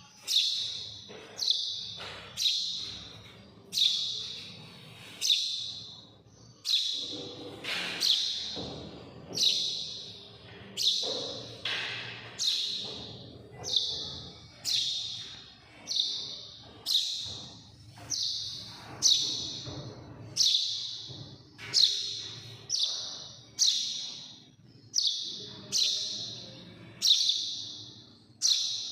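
A bird calling over and over, about once a second: short high-pitched calls, each starting sharply and fading away.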